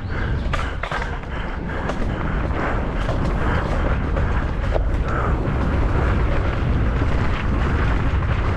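Wind rushing over the microphone of a mountain bike at speed, a steady low rumble, with scattered sharp knocks and rattles from the bike over rough ground.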